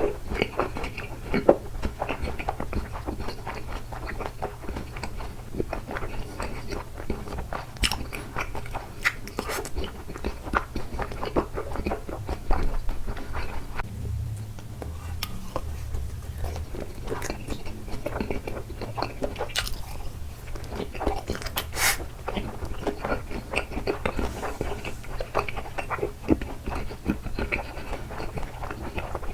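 Close-miked chewing and biting of takoyaki: irregular mouth clicks and smacks continue throughout, with a few sharper ticks. A steady low hum runs underneath.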